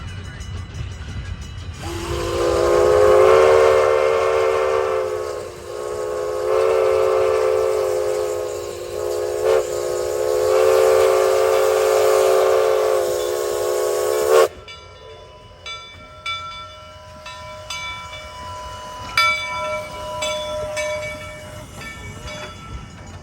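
Steam locomotive whistle blown in several long blasts, with a brief break between each. It cuts off sharply, and faint scattered tones and clicks follow.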